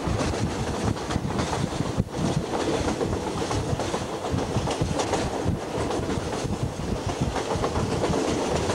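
Passenger train running along the track, heard from an open carriage window: a steady rumble of wheels on rails, with rapid clicks over the rail joints and a steady drone underneath.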